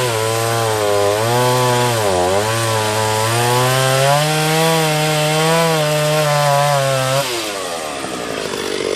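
Two-stroke chainsaw running at high revs while cutting wood, its pitch wavering and sagging under load about two seconds in. The revs drop off sharply about seven seconds in.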